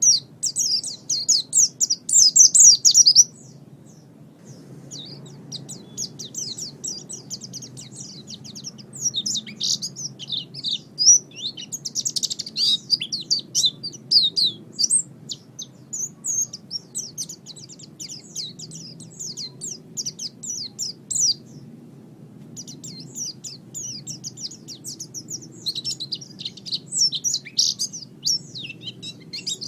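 Pleci (Oriental white-eye) singing rapid, high chattering twitters and trills, with short pauses about three seconds in and two-thirds of the way through. A faint low hum lies underneath.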